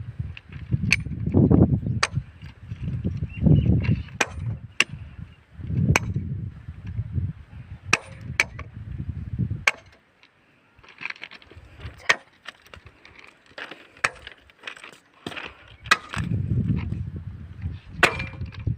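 Sharp metallic clinks and clanks at irregular intervals, a second or two apart, from a keyman's tools striking railway track fittings. Under the clinks is a low rumble that comes in gusts, heavy in the first half and again near the end.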